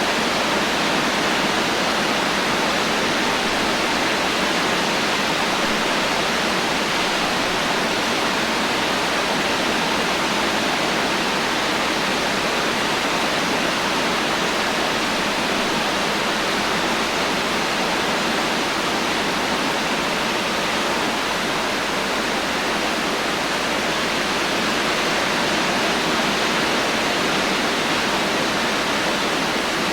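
Heavy rain falling as a steady, even hiss, with no thunder and no single drops or gusts standing out.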